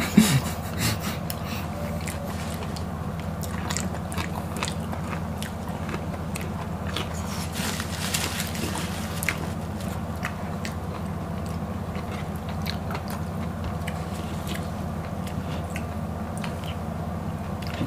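Close-miked biting and chewing of raw okra pods: scattered crisp crunches and wet clicks of mouth noise, over a steady low hum.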